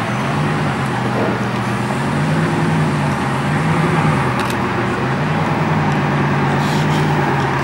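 Bugatti Vision GT's engine running under light throttle, its pitch stepping up and settling back several times as the car strains to climb a transporter's loading ramp.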